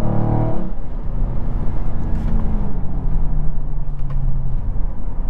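Dodge Charger Scat Pack's 6.4-litre V8 under way: a strong, pitched engine note in the first half-second drops away to a low rumble with road noise and a faint steady hum that fades out about four and a half seconds in.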